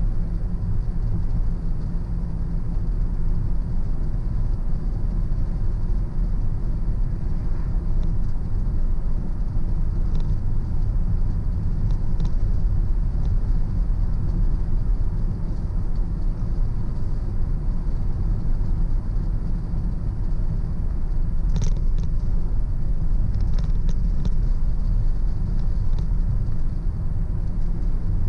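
Car driving along a road: a steady low rumble of engine and tyre noise, with a few faint clicks now and then.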